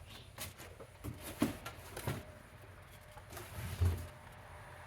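Scattered knocks and thumps of vacuums and cardboard boxes being handled, with one heavier low thump near the end.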